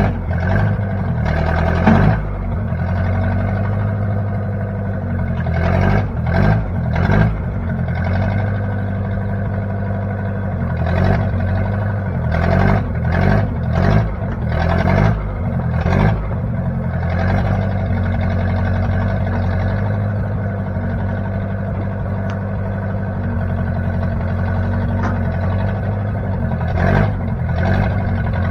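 The engine of a 1960 Case 540 backhoe running steadily. Bunches of short clanks and rattles break in several times over the top of it.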